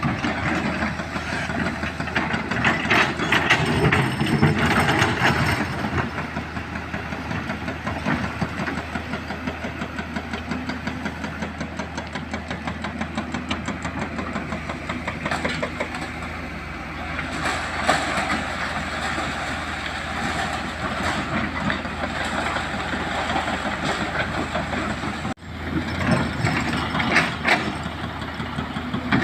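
Hydraulic excavator at work: its diesel engine running steadily, with clanking and rattling of metal on rock.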